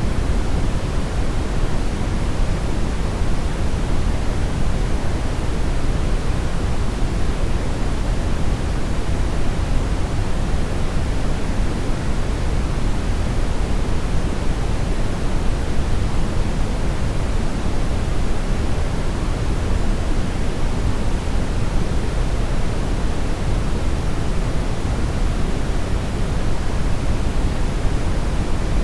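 Steady brown noise: an even, unchanging rush of synthetic noise weighted heavily toward the low end, with no tones or events.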